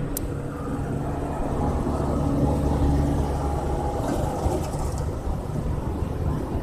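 A motor running steadily with a low hum that swells for a couple of seconds in the middle, over a bed of rushing noise.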